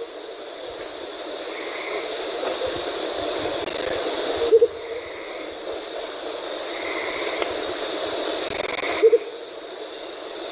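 Andean motmot giving its low double hoot twice, about four and a half seconds apart, over a steady high-pitched background drone.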